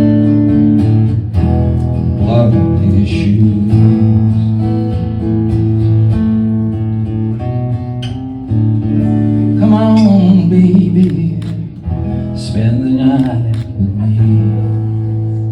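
Acoustic guitar strummed through the closing bars of a folk song, with a singing voice on drawn-out notes at times.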